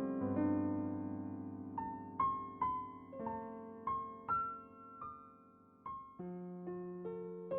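Background music: a slow, soft piano melody of single notes over held chords.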